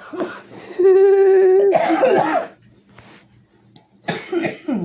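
A loud vocal sound: one steady held note about a second long, running straight into a harsh, raspy cough-like burst. A shorter call falling in pitch comes near the end.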